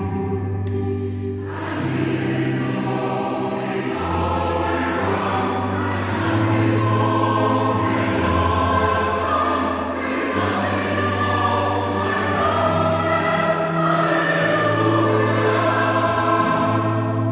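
Choir singing held chords in several parts, the notes changing every second or two.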